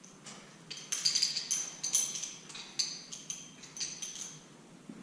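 Small steel engine parts clinking and rattling together as they are handled: a run of light, ringing metal clinks, busiest from about a second in.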